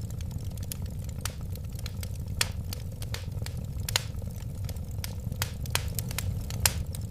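Wood fire burning with a steady low rumble of flames and irregular sharp crackles and pops, a few louder snaps among them.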